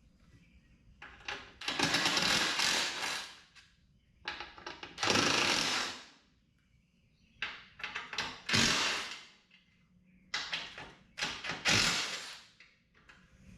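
Cordless power driver spinning out door-panel screws in four short bursts, with clicks and knocks of handling the hardware between them.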